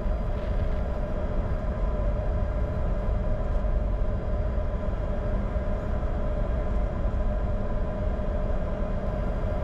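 Steady cockpit noise of a Bombardier Challenger 605 business jet taxiing, its GE CF34 turbofans at low power: a constant low rumble with a steady whine.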